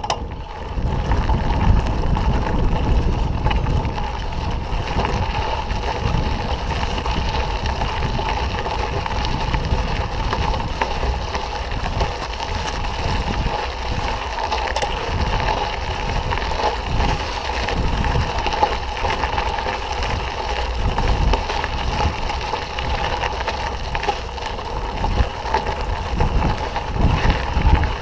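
Mountain bike riding along a dirt trail: wind rushing over the microphone over the rumble of the tyres and bike, steady throughout.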